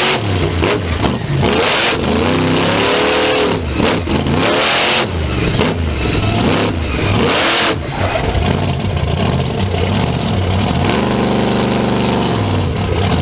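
A large vehicle engine revving up and down over and over. Several loud full-throttle blasts come in the first half, and the engine holds steady at high revs near the end.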